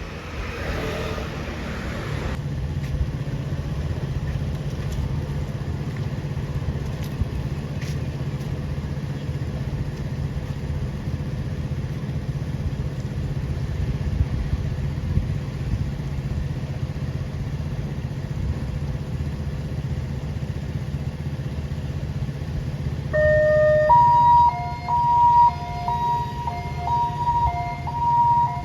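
Ambulance engine running as a steady low hum; about 23 seconds in its siren starts, switching back and forth between a higher and a lower tone.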